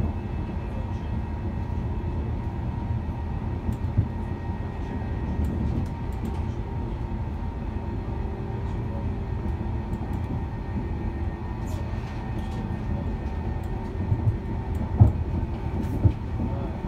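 Passenger train running at speed, heard from inside the carriage: a steady low rumble from the wheels and running gear. A few sharp knocks stand out near the end.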